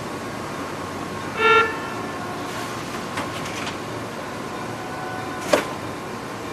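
Electric commuter train moving slowly over the tracks with a steady running noise. A single short horn toot sounds about a second and a half in, and there is a sharp clack near the end.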